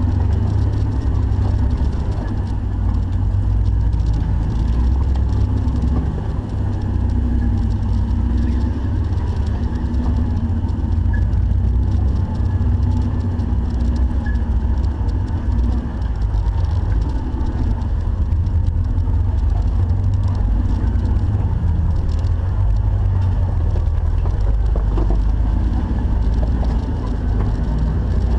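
Jeep 4x4 driving off-road, its engine and drivetrain making a steady low rumble throughout.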